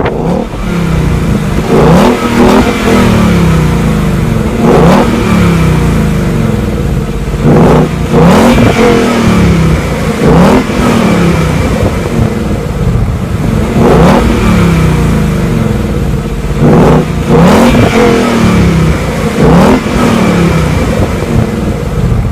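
Ford Mustang GT's 5.0-litre V8 engine revving hard again and again, its pitch climbing and then falling back every two to three seconds, with a sharp crack at many of the drops.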